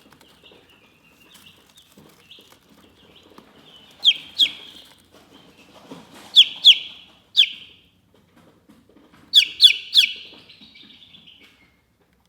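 Chickens chirping: soft, continuous high peeping, broken by louder sharp chirps that slide downward in pitch, in three clusters of two, three and three.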